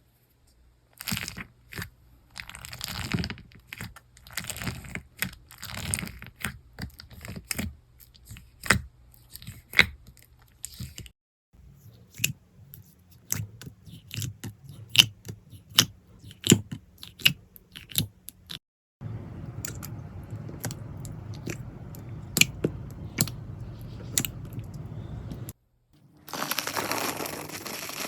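Slime being pressed, poked and stretched by hand, giving many sharp clicks and crunchy pops. Partway through, the clicks sit over a steady hiss, and near the end comes a brief loud crackling.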